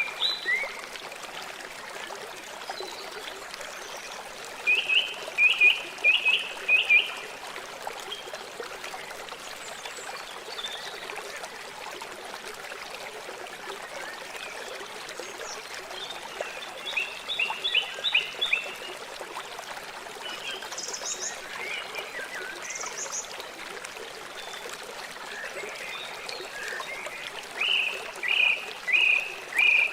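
River water flowing steadily. Over it an animal calls in short series of rapid, high, pulsed notes, in about five separate bouts.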